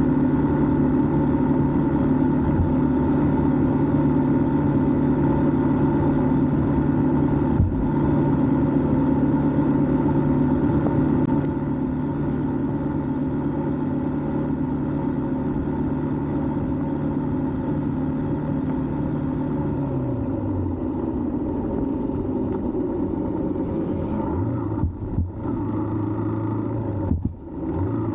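Yamaha R15 motorcycle's single-cylinder engine running steadily at cruising speed. About twenty seconds in the engine note drops as the bike slows, then runs on at a lower pitch, with a couple of brief dips near the end.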